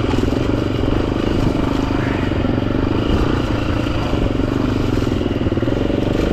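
Dirt bike engine running as the bike is ridden along a trail, with small changes in throttle.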